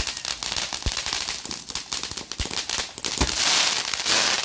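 Alamo Fireworks Cardiac Arrest fountain spraying and crackling continuously, with several sharper pops. A loud hissing surge comes about three seconds in.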